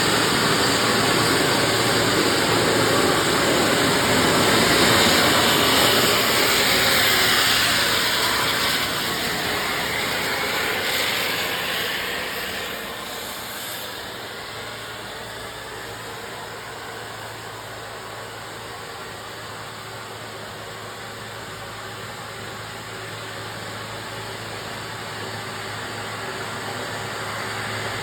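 A truck passing close by, loud for the first ten seconds or so with its sound sliding lower as it goes, then fading away and leaving a steady low hum.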